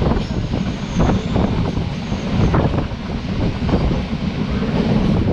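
Sri Lanka Railways passenger train running along the line, heard from a carriage window: a steady low rumble of the carriage with irregular sharp clacks of the wheels over the rails.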